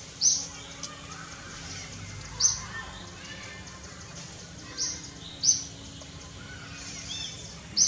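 A bird calling in short, sharp, high chirps, five of them spaced a second or two apart, over steady forest background noise.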